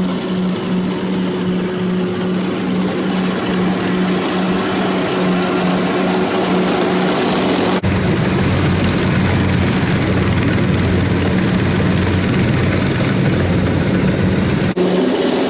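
Small Kubota tractor engine running steadily. The engine note changes abruptly about halfway through and again near the end, sounding heavier and lower in between.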